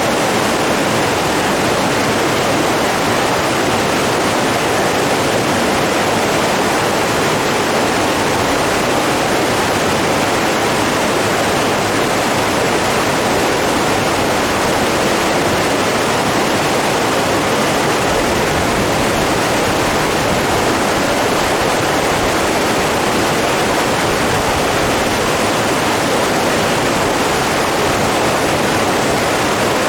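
Running water rushing steadily, a continuous even hiss with no breaks or changes.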